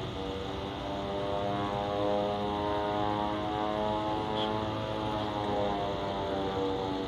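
A steady, unexplained drone from the sky: several tones sounding at once, held long and slowly shifting in pitch, over a low rumble, with no aircraft seen by the person recording.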